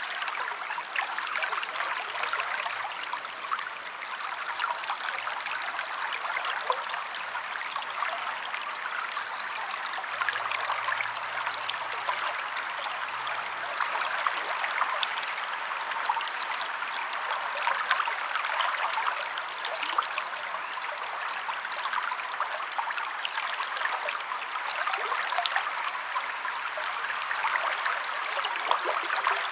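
A stream flowing steadily over rocks, with trickling and splashing. A small bird gives short, high trilled chirps every few seconds.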